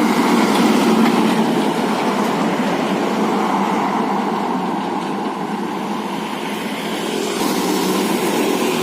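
A truck driving past on the road, its engine and tyre noise steady throughout.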